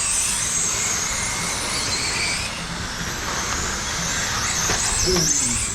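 Radio-controlled race trucks running laps on a dirt oval: a high motor whine that rises and falls as the trucks go through the turns, over a steady rush of tyre and track noise.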